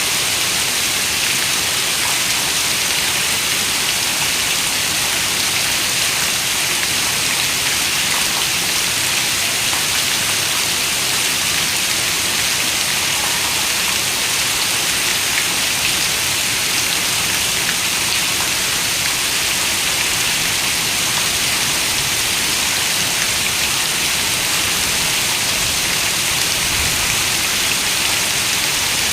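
Steady rain: an even, unbroken bright hiss with faint scattered drop ticks, holding the same level throughout.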